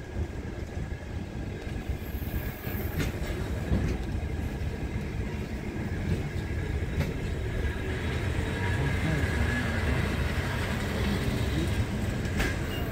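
Passenger train coaches rolling past, with a steady low wheel rumble and a few sharp clacks, growing a little louder in the second half.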